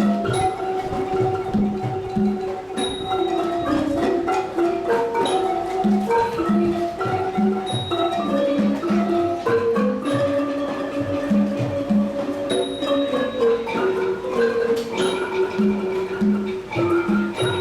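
An ensemble of ranat ek, Thai wooden xylophones, playing a fast melody in unison with hard mallets, the notes moving in quick steps. A short high tick recurs about every two and a half seconds.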